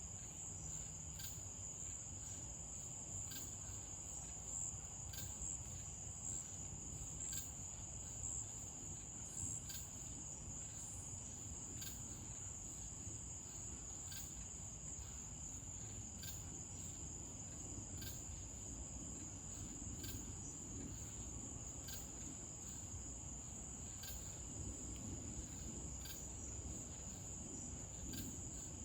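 Crickets trilling steadily in a continuous high-pitched drone, with faint ticks about once a second and a low background rumble.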